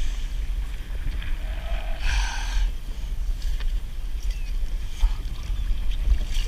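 Wind buffeting the microphone in a steady low rumble, with a brief rushing noise about two seconds in.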